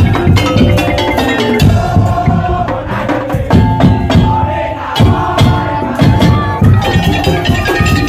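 Madurese tong-tong (ul daul) ensemble playing loud, dense music: rapid wooden slit-drum and drum beats under a sustained melody.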